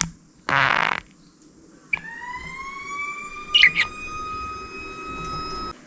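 Pet budgerigar giving a short warbling chirp. About two seconds later a long whistled tone begins that rises slightly and holds for nearly four seconds, with a couple of sharp budgie chirps over it. The sound cuts off suddenly near the end.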